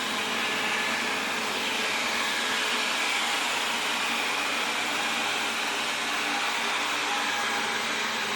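Wyze robot vacuum running on its first cleaning run, mapping the room with its LIDAR as it goes. Its suction motor gives a steady whir with a few faint steady tones over the noise, not too loud.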